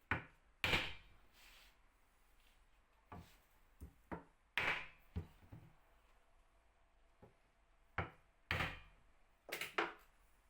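Irregular wooden knocks and thuds, about a dozen, some trailing into a brief scraping rush, as wooden parts are handled and set down.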